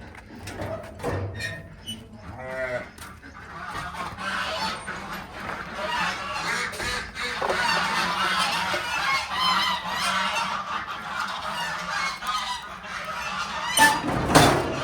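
A flock of geese honking, many calls overlapping, thickening about four seconds in. A brief loud noise near the end.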